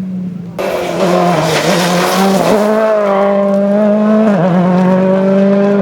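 Rally car engine held at high, fairly steady revs, with two brief dips in pitch. A loud hiss cuts in suddenly about half a second in and fades after a couple of seconds.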